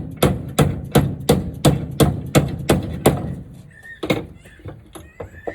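Hammer blows on wood: a steady run of about three heavy knocks a second for the first three seconds, then a few lighter, scattered knocks with one louder one about four seconds in.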